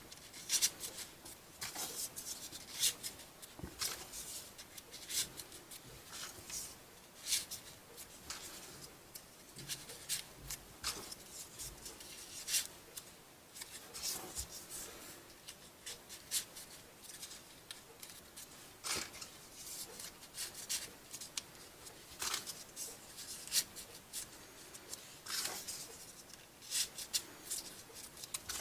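Folded paper pieces of a modular 3D origami model rustling and crinkling as they are handled and pushed onto the model one after another, in short, irregular scrapes.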